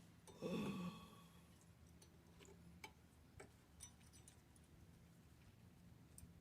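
Faint clicks and light handling of metal parts, with one short ringing clink about half a second in, as brake pads and caliper hardware are fitted.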